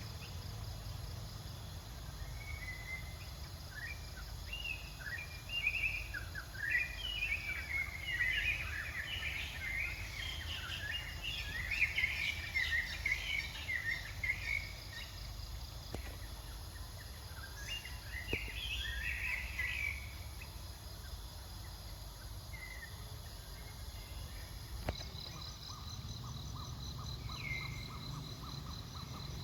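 Outdoor ambience: a flurry of short, high chirping calls through most of the first twenty seconds over a steady low rumble. Then, after an abrupt change near the end, steady insect trilling.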